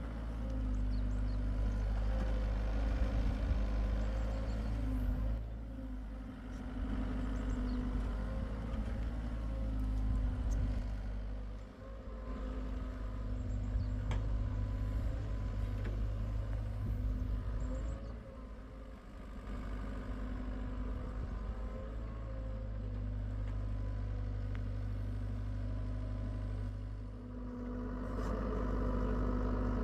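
Diesel engine of a Hitachi EX75UR compact excavator running steadily as it digs, its sound rising and falling with the hydraulic load and easing off briefly three times.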